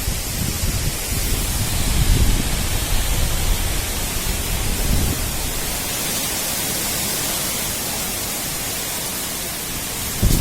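Strong wind blowing in gusts, buffeting the microphone with low rumbles through the first half, then settling to a steadier hiss.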